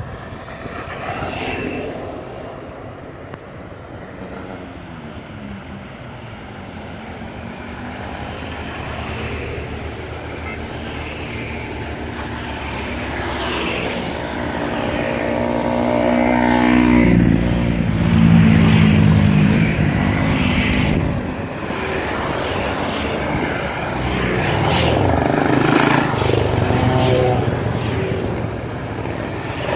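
Motorcycle engines running. About halfway through they climb in pitch as they accelerate and are loudest a few seconds later, then the revs rise and fall again near the end.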